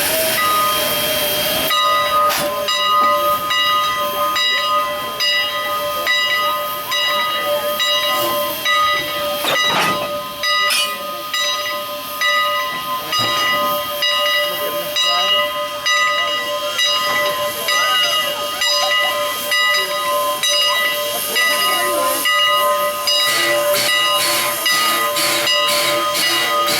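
Strasburg Rail Road steam locomotive No. 89, a 2-6-2, letting off steam: a loud, steady hiss with held ringing tones running through it.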